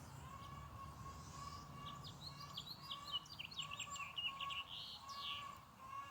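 Outdoor birdsong: a short note repeated about twice a second, with a flurry of quick, higher chirps in the middle and a low background hum.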